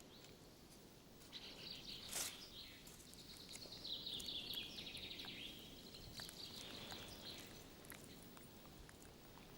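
Faint forest ambience with a small bird's high, rapid twittering trills that go on for several seconds, and a single soft click about two seconds in.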